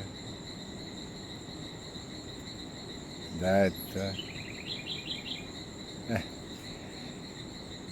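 Steady high-pitched drone of crickets and other insects in tropical forest at dusk. About four seconds in, a small bird gives a quick run of short chirping notes.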